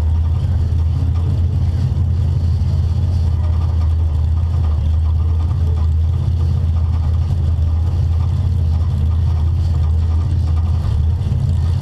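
Stock car's engine idling steadily as a loud, even low drone, heard from inside its stripped-out cabin.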